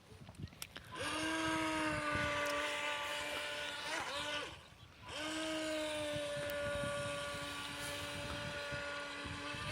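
Remote-control toy boat's motor running at speed: a steady high whine that winds up about a second in, cuts out briefly near the middle as the throttle is let off, then winds up and runs again.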